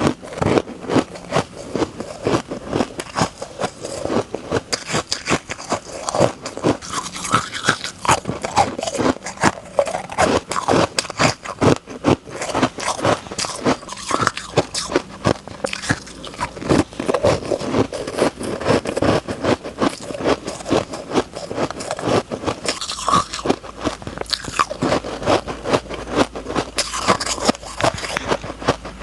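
Close-up crunching and chewing of refrozen honeycomb ice, with a dense, irregular run of crisp cracks and crackles as the ice is bitten and ground between the teeth.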